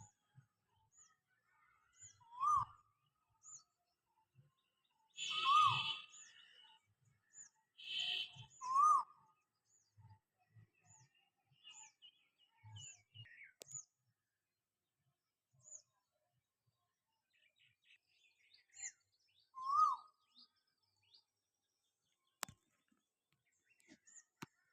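Wild birds calling. Short high chirps repeat throughout. A louder, lower call that rises and then falls comes four times, and harsh raspy calls come twice early on. Two sharp clicks sound near the end.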